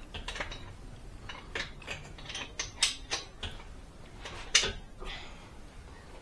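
Metal tools and parts clicking and clanking irregularly, with one sharper metallic knock about four and a half seconds in.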